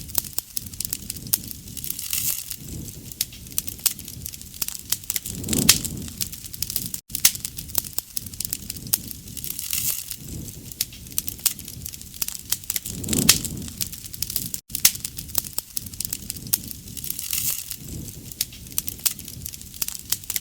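Wood fire crackling, many sharp pops and snaps over a low, swelling noise of the flames. The same stretch of fire sound repeats about every seven and a half seconds, as a loop.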